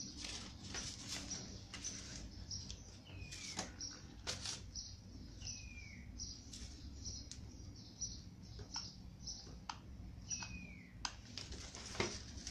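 Birds chirping: quick high chirps throughout, and three times a falling whistled call. A few clicks and a sharp knock near the end come from the sander being handled.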